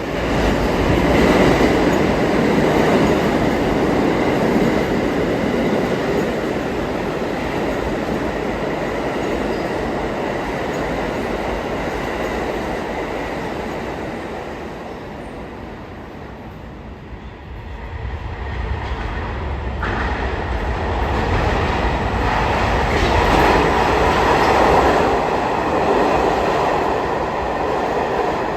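New York City subway trains running through a station on the BMT Broadway Line, a loud steady rumble of wheels on track with a thin high whine in the first few seconds. The noise eases about halfway through, then builds again as more train noise comes in, with a sharp click a little after that.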